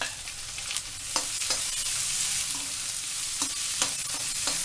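Finely chopped onions and garlic sizzling in hot oil in a kadhai, with a spatula stirring and now and then clicking against the pan. The sizzle grows louder about a second in.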